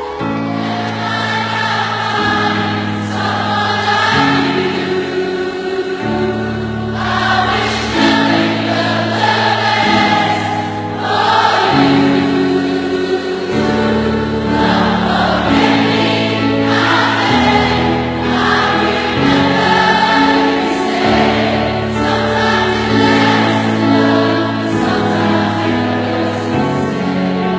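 A large concert crowd singing along together like a choir over the band's backing music, many voices blending into one loud, sustained chorus.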